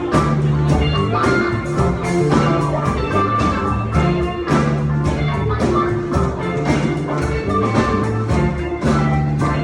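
Live rock band playing an instrumental passage: guitar, bass and drum kit with a steady beat.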